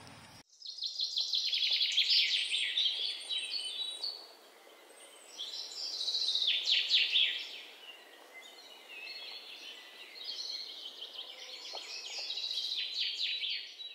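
Songbirds chirping in quick high-pitched trills, in three bouts, over a soft steady background hiss of outdoor ambience.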